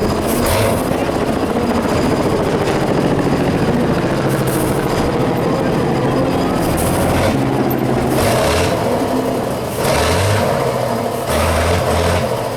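Off-road competition truck's engine running hard, its pitch rising and falling as it is revved.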